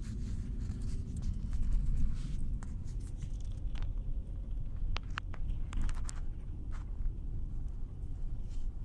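2007 Cadillac Escalade on the move: a steady low road-and-drivetrain rumble with a few light clicks and taps. There is no wheel-bearing drone, since the front wheel bearing has just been replaced.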